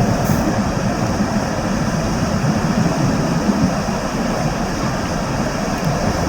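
Boeing 777 jet engines running, a steady, even rumble heavy in the low end, with no sudden events.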